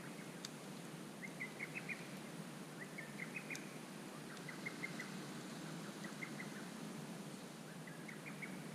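A bird calling in short rapid trills of high notes, repeated about every one and a half seconds, over the faint steady hiss and occasional tick of a campfire.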